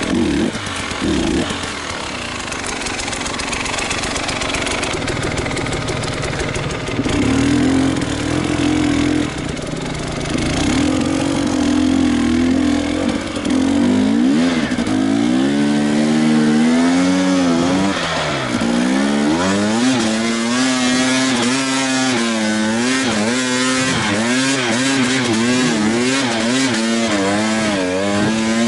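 Enduro motorcycle engine being ridden hard, its pitch rising and falling as the throttle is blipped over and over. The revving grows quicker and choppier from about halfway through.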